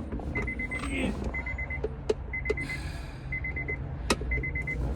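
A car's electronic warning chime: a quick burst of about five beeps, repeating about once a second. A few sharp clicks come over it, with a steady low hum beneath.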